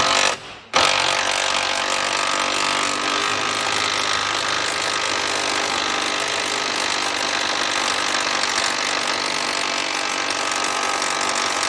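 A power tool running steadily on the MX5's seized subframe bolts, a dense mechanical rattle with a steady pitch, after a short separate burst at the very start.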